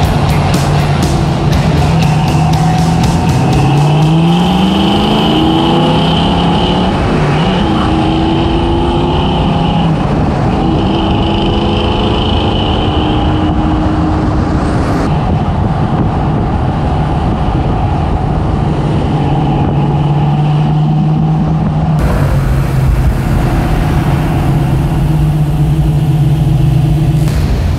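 1965 Mustang GT-350 clone's V8 engine running as the car drives, with rising revs as it accelerates a few seconds in. The sound changes abruptly twice in the second half.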